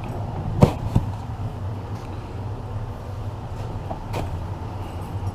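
A vehicle engine idling with a steady low hum, with two sharp knocks about a second in and another about four seconds in.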